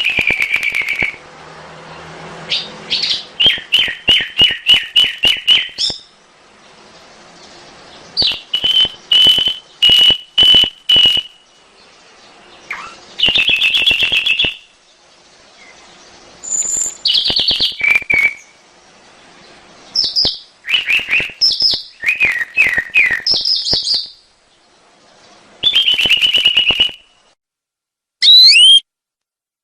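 Domestic canary singing: phrases of fast repeated trilled notes, each phrase one to three seconds long and separated by short pauses, with a brief sweeping phrase after a pause near the end.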